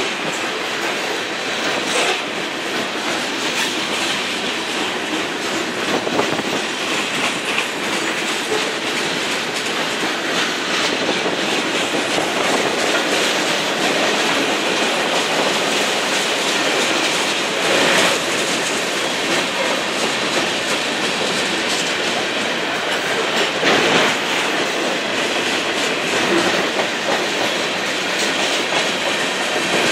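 BNSF freight train cars rolling past, their steel wheels clacking over the rail joints in a steady noise, with a few louder clanks.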